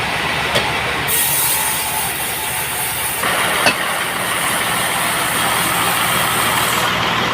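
Band sawmill machinery running steadily with an engine hum, a high hiss starting about a second in and stopping near the end, and a couple of short knocks.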